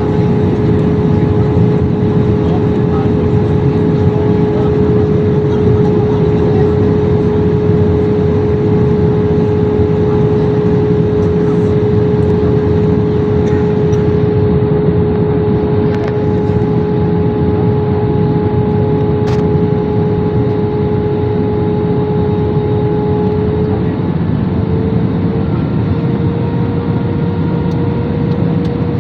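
Jet airliner cabin noise on descent: a steady rush of engine and airflow with a droning hum that steps up slightly in pitch near the end.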